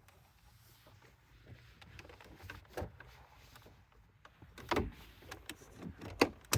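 Plastic car interior trim knocking and clicking as the centre console is pressed back into place: three sharp knocks, about two seconds apart, the last the loudest.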